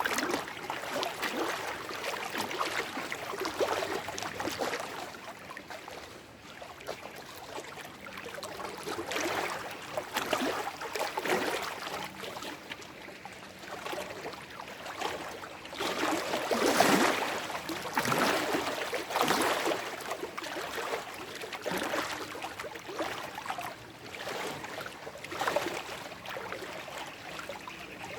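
Small lake waves lapping and splashing over shoreline rocks, in irregular surges every second or two, the biggest splash about two-thirds of the way through.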